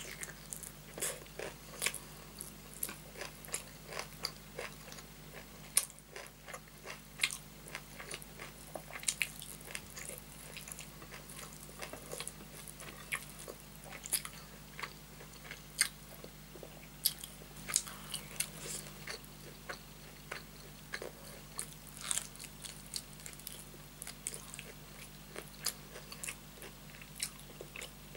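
Close-miked chewing of a mouthful of rice and curry, eaten by hand: irregular wet mouth clicks and smacks, several a second, over a steady low hum.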